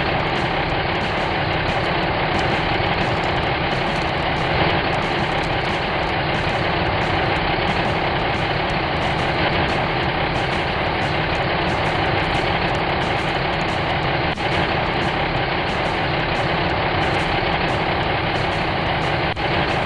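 Steady engine sound, like an idling heavy vehicle, that starts abruptly and holds at an even level.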